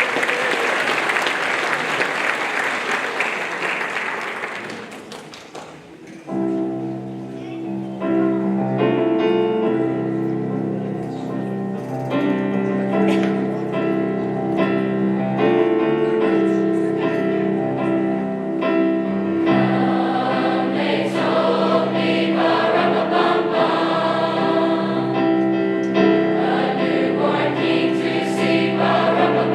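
Audience applause fading away over the first few seconds. Then, about six seconds in, a high school choir starts singing, holding sustained chords through to the end.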